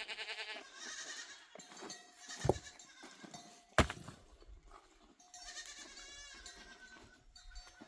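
Herd animals bleating several times, with wavering calls. Two sharp knocks cut in, about two and a half and four seconds in.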